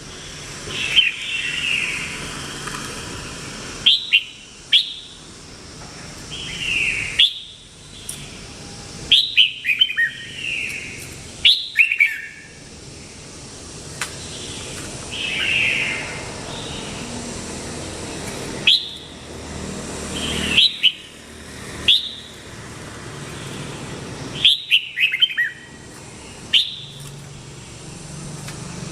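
Red-whiskered bulbul (Vietnamese strain) singing: short, bright phrases of sharp chirps and falling whistled slurs, repeated every second or two with brief gaps between them.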